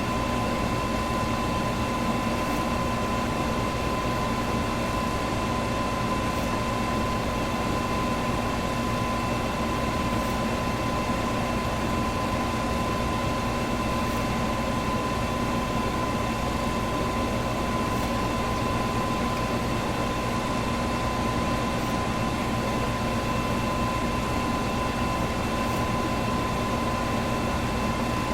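Electric fan running steadily: an even rush of moving air with a constant low motor hum and a thin, steady high whine.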